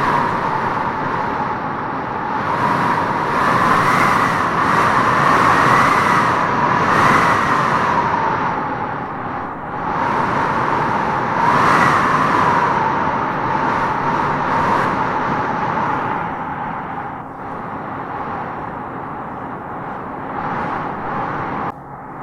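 Howling wind gusting through trees: a steady rush with a whistling howl that rises and falls. The gusts swell a few seconds in and again around twelve seconds, then ease off.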